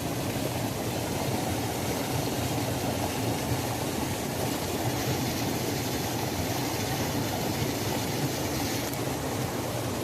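Waterfall: water falling and rushing steadily, a constant deep roar with a fainter hiss above it.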